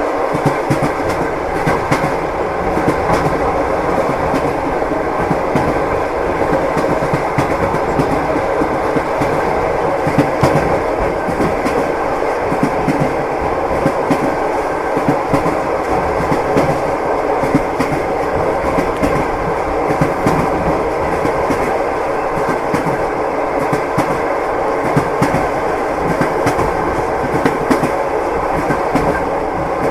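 Train wheels running along the track: a steady rumble with the rhythmic clickety-clack of wheels knocking over the rail joints.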